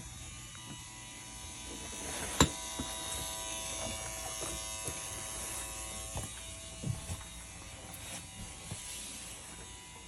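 A steady electric buzz made of several held tones. A single sharp click comes about two and a half seconds in, and a few fainter knocks follow later.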